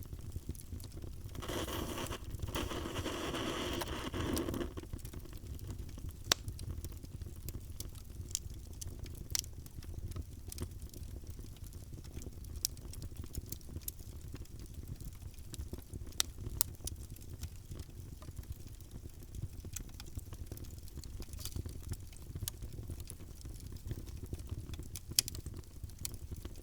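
Wood fire burning in a fireplace: a steady low rumble of flames with sharp, irregular pops and crackles. A louder hissing rush runs for about three seconds near the start.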